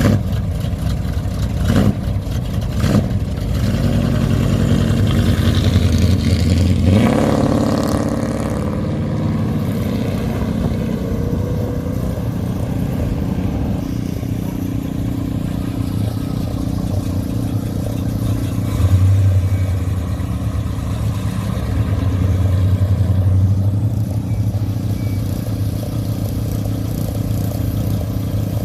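Hot rod and custom car engines running as the cars drive past and pull away, one revving up sharply about seven seconds in. A deep, steady engine rumble fills the rest, swelling twice later on.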